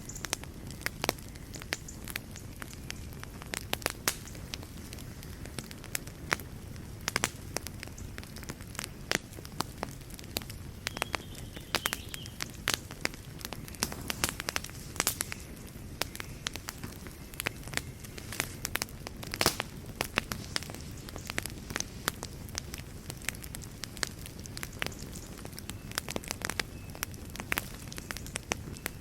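Fireplace fire crackling, with irregular sharp pops over a steady low rumble of the flames. One pop stands out, about two-thirds of the way through.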